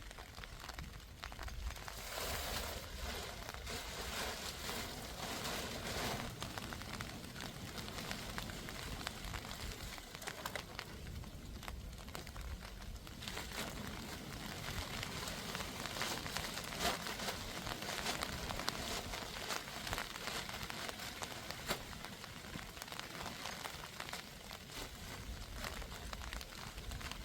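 Rain falling in a dense patter of small ticks, now heavier, now lighter.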